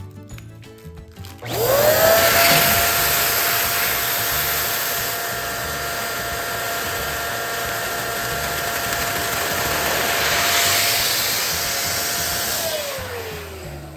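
Electric balloon pump switching on about a second and a half in, spinning up to a steady whine with a rush of air while it inflates a balloon, then switching off and winding down near the end.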